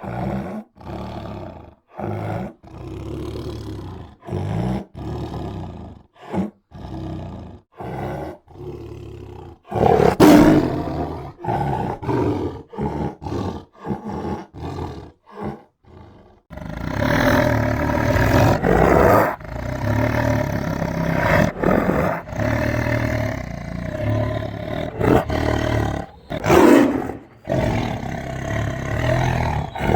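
Tiger growling and roaring. For the first half it gives a string of short, separate growls, about two a second, with one loud roar around ten seconds in; from about halfway it snarls and roars with no breaks, rising to several loud peaks.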